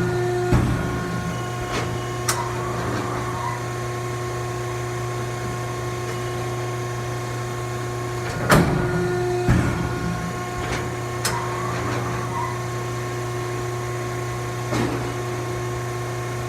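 Wysong 10-foot shear running through a programmed dry-cut sequence. Its drive gives a steady hum, with a few sharp clunks and clicks at irregular intervals as the machine cycles and the CNC back gauge repositions.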